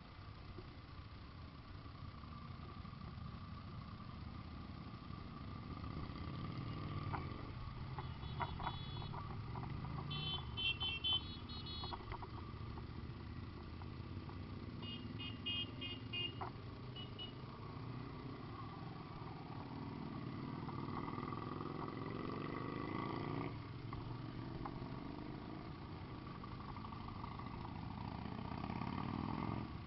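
Several motorcycle engines running, their pitch rising and falling as they rev and pass. Between about 8 and 17 seconds in come clusters of short, high beeps.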